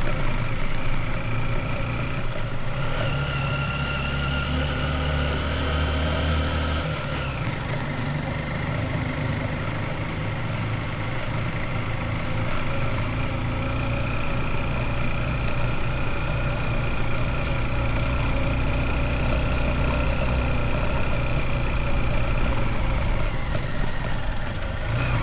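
Motorbike engine running while riding. Its pitch holds steady for stretches and changes a few times: up about two to three seconds in, down about seven seconds in, and up again before easing off near the end.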